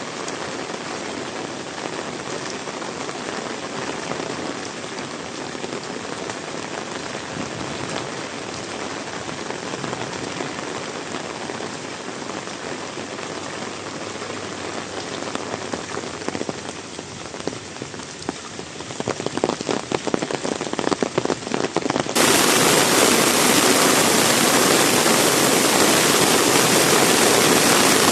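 Heavy rain falling steadily with a dense hiss. Toward the end come a run of sharp separate drop hits, then an abrupt jump to a louder, fuller rush of rain.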